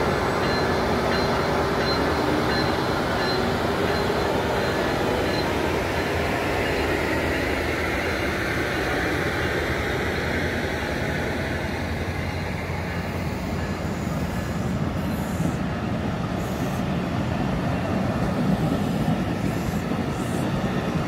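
MARC commuter train running past the platform at close range: a loud, steady rumble of wheels on rail that comes up suddenly just before and holds throughout.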